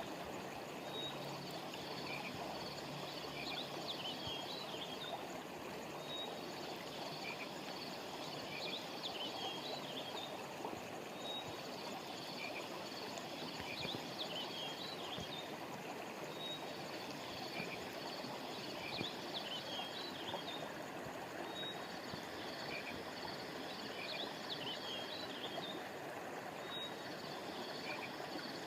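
Steady rush of flowing river water, with small birds chirping and trilling high above it in a phrase that comes back about every five seconds.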